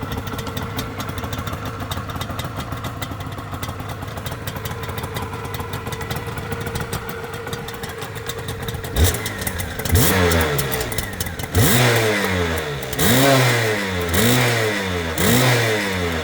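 1980 Suzuki RG125E's 125 cc two-stroke single-cylinder engine idling steadily, then, about nine seconds in, blipped repeatedly in free revs, each one rising and falling in pitch, about one a second.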